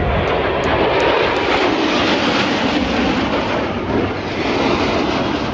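Loud, steady jet noise from the Thunderbirds' F-16 fighter jets flying over.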